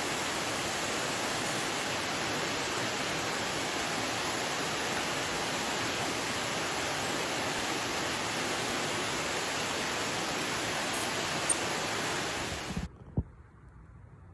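Steady rush of water, an even full-range noise like a waterfall, that cuts off suddenly near the end. A much quieter hiss with a single sharp click follows.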